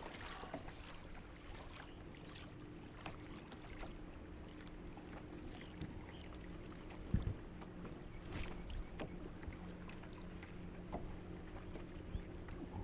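Kayak on the water: faint water lapping and small splashes against the hull, with scattered light clicks and one low knock on the hull about seven seconds in.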